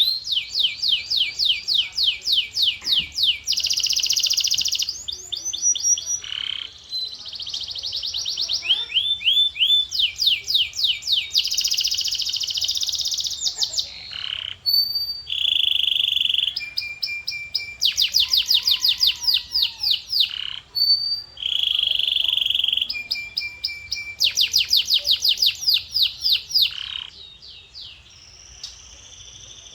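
Male domestic canary singing a long song of rapid trills made of quickly repeated high notes, broken by short gaps and a few held whistled notes. The song drops away to quieter singing near the end.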